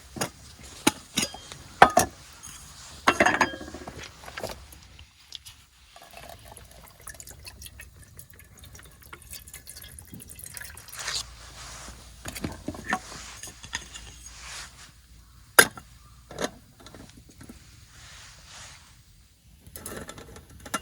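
Cookware and utensils knocking and clinking a dozen or so times, the loudest near the start and again about two-thirds through, with liquid being poured or filled between them.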